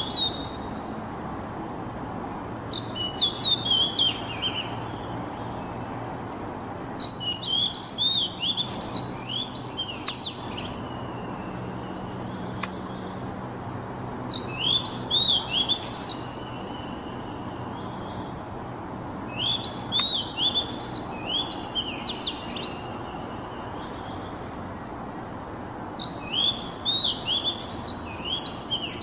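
Oriental magpie-robin singing: five bursts of quick, high, upward-curving whistled notes, a few seconds apart, over a steady hiss.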